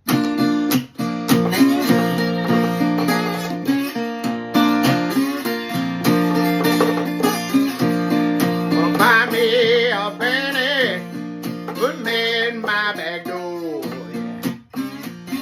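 Acoustic slide guitar playing a Delta blues intro: a repeating picked bass figure, with wavering, gliding slide notes in the middle stretch.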